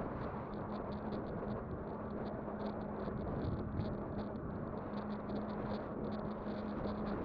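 Kugoo Kirin V5 electric bike being ridden: a steady rush of wind and tyre noise with a steady hum and a quick, uneven light ticking.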